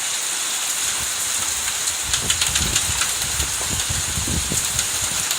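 Heavy rain pouring down in a steady hiss. About two seconds in, a low, uneven rumble with scattered thumps sets in beneath it.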